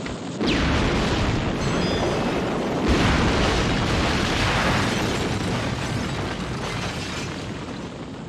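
Film sound effect of a small plane exploding: a sudden blast about half a second in, a second swell about three seconds in, then a long fading rumble.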